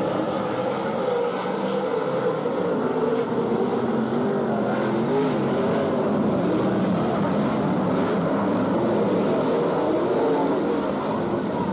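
Several sprint car V8 engines running together on a dirt speedway, their pitch rising and falling as the cars circle the track.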